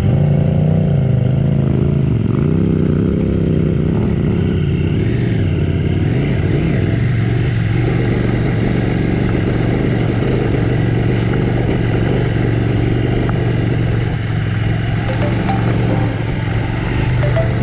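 Adventure motorcycle engine running under way, its pitch rising and falling with the throttle over the first several seconds, then holding fairly steady.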